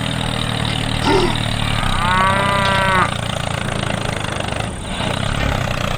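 A cow mooing once, about two seconds in, for roughly a second, with a shorter call just before it, over a steady low hum of a small motor.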